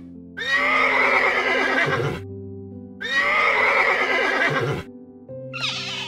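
Horse whinnying twice, each a loud quavering neigh lasting about two seconds, over background music. Near the end a different, higher animal call begins.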